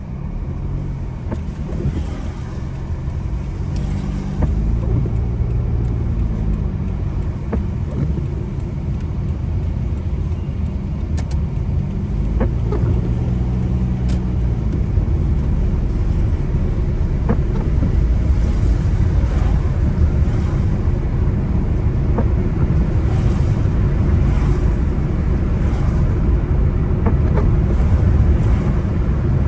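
A car driving on a wet road: a steady tyre and engine rumble, the engine note rising and falling twice as it changes speed, with a few sharp ticks, and the overall noise growing louder as the car picks up speed.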